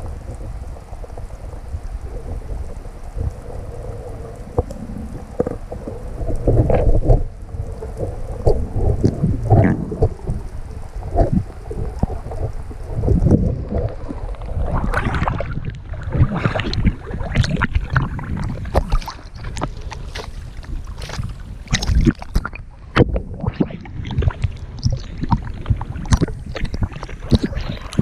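Water sloshing and splashing around the camera over a low rumble of wind on the microphone. The splashes grow denser and more irregular about halfway through.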